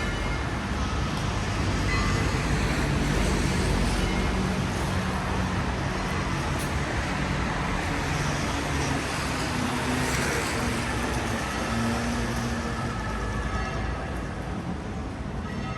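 Road traffic passing on a rain-wet city street: steady tyre hiss with a low engine rumble, strongest in the first few seconds and easing off toward the end.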